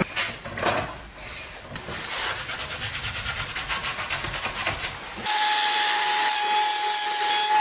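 A few knocks, then fast, evenly paced rubbing strokes on wood, like sanding or scraping. About five seconds in, an electric power tool starts and runs with a steady whine.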